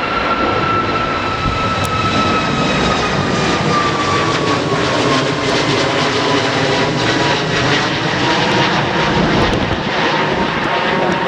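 Airliner's engines passing close by, loud and steady, with a high whine that slides down in pitch as the aircraft goes past.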